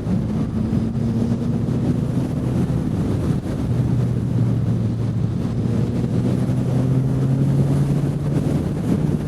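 Motorcycle engine running at road speed under heavy wind noise on the microphone. After a brief dip about a third of the way in, the engine note climbs slowly and steadily as the bike accelerates.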